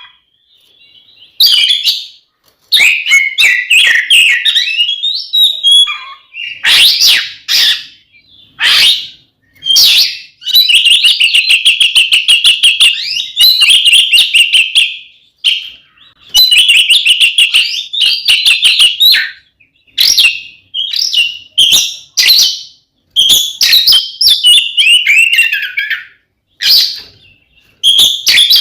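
Oriental magpie-robin (kacer) singing loudly in its aggressive fighting song: bursts of varied whistled phrases and two long, very fast trills, separated by short pauses.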